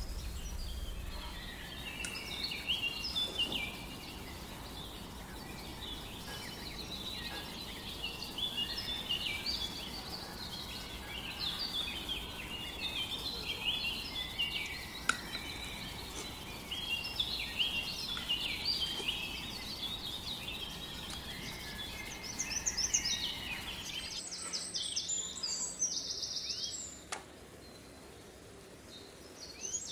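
Birds chirping in the background, many short high chirps in quick succession, over a low steady hum. The chirping thins out and the sound drops quieter near the end.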